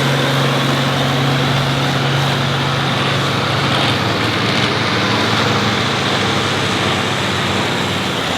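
Tractor engine running steadily: a low engine note that is strongest over the first couple of seconds, under a steady wash of noise.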